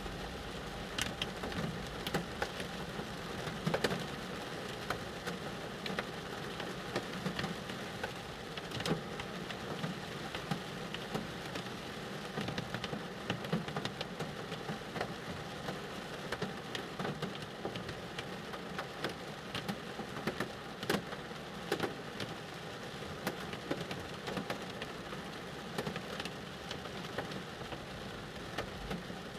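Rain falling on a car, heard from inside the cabin: a steady patter with many separate drops ticking sharply on the roof and glass.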